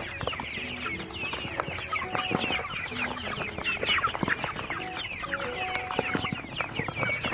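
A flock of young chickens clucking and cheeping, with many short calls overlapping without a break.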